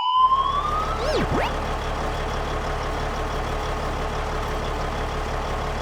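Ambulance siren rising in pitch and cutting out about a second in, with a brief swooping wail, over a steady vehicle engine drone that runs on.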